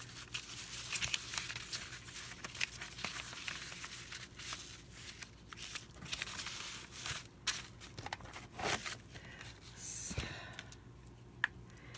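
Sheets of paper being handled and shuffled: irregular rustling and crinkling with small taps, over a faint steady hum.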